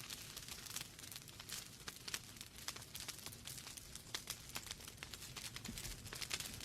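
Wood fire burning in a fireplace: logs crackling with many small, irregular snaps and pops over a low steady hiss of the flames.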